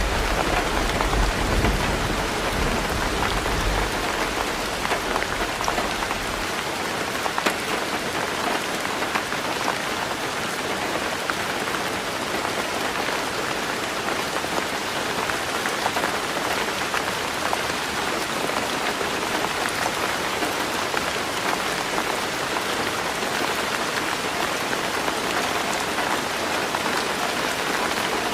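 Heavy rain drumming steadily on a tin roof, with a low rumble of thunder dying away in the first few seconds.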